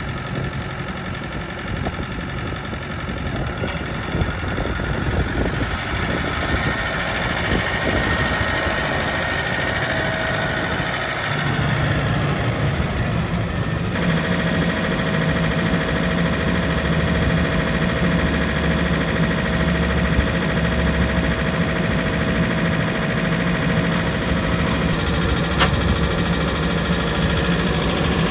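Kioti RX6620 tractor's diesel engine running, mostly at idle; its note shifts about eleven seconds in and then runs on steadily.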